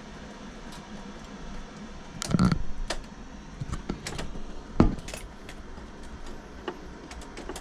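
Small metal objects clinking and knocking as they are handled, with a short cluster of clinks a little over two seconds in and a sharper single knock near five seconds in, between scattered lighter clicks.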